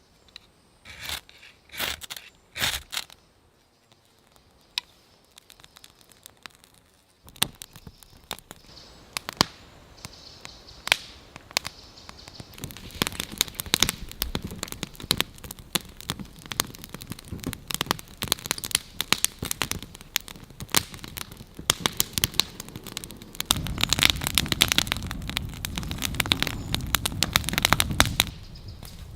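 Dense crackling and snapping. A few separate clicks come first. From about seven seconds in they thicken into a steady stream, and they are loudest and thickest over a low rumble for the last five seconds or so.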